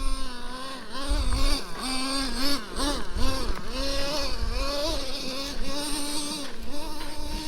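Traxxas T-Maxx 3.3's two-stroke nitro engine revving up and down over and over as the throttle is worked, its pitch rising and dropping every half second or so.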